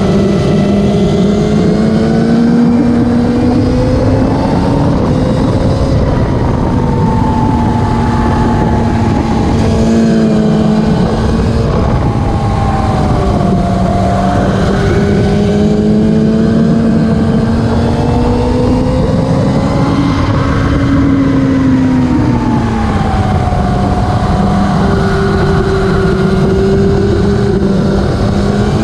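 Classic superbike racing motorcycle engines running hard at high revs, their pitch rising and falling continuously with throttle and gear changes, with at times more than one engine heard at once.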